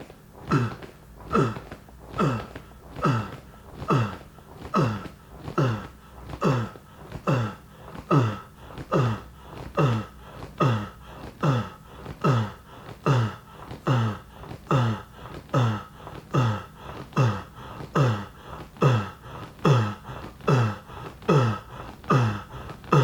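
A man's voice repeating a short, guttural 'uh' from the back of the throat over and over, a little more than once a second. Each grunt drops in pitch.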